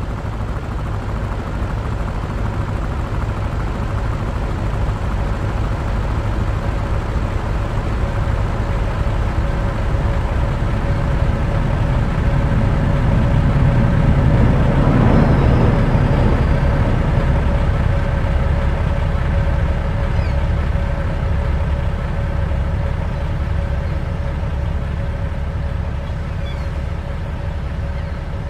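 Race car engine noise at a sports car race, swelling to its loudest about halfway through as a car passes and then easing, over a steady hum.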